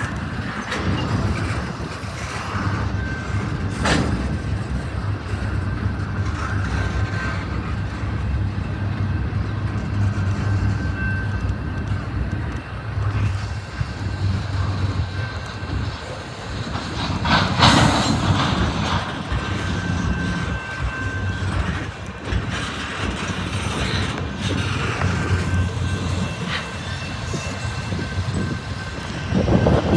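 Freight train cars rolling past at close range, their wheels rumbling and clattering over the rail joints, with a thin steady high whine from the wheels. The clatter surges louder for a moment about 17 seconds in.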